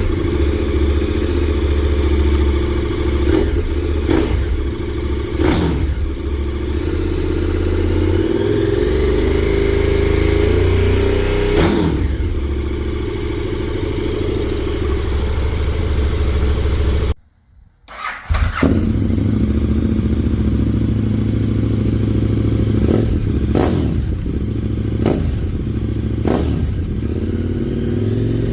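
KTM 1290 Super Adventure S's V-twin engine running through an Arrow Maxi Race-Tech exhaust, idling with several sharp throttle blips and one slow rising rev. The sound drops out briefly a little past halfway, then the engine picks back up.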